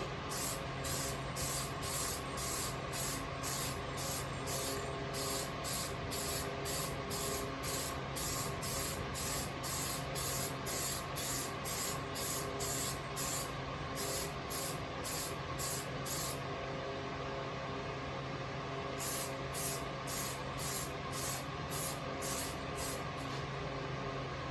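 Aerosol spray-paint can spraying in short, rapid spurts, about two a second, with a pause of a couple of seconds about two-thirds of the way through. A steady low hum runs underneath.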